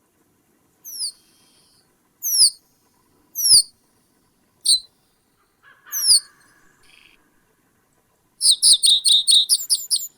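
A bird calling in sharp, downward-slurred notes about a second apart, then a fast run of about a dozen notes near the end.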